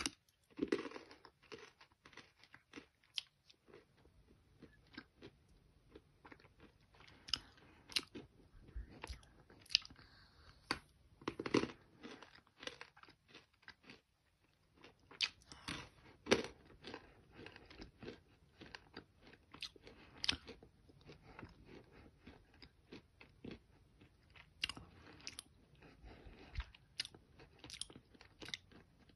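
A person biting and chewing chunks of half-roasted edible clay (Nakumatt) close to the microphone: many sharp, irregular crunches with quieter chewing between them.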